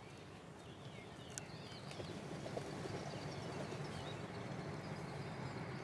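A steady low rumbling noise that grows slightly louder, with a few faint bird chirps and one sharp click about a second and a half in.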